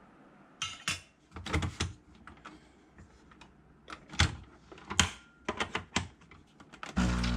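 A run of irregular sharp clicks and taps of uneven loudness, close to the sound of keys being struck, followed near the end by a loud steady low tone that starts abruptly.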